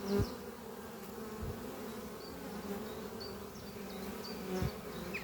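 Honeybees buzzing as they fly in and out of the hive entrance: a steady, many-voiced hum that swells briefly near the start and again near the end as bees pass close.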